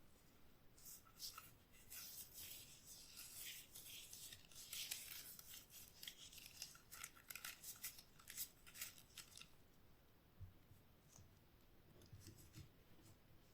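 Restored antique Austro-Hungarian wire cutters snipping and clicking faintly: many quick, sharp snips for about eight seconds, then a couple of soft knocks near the end.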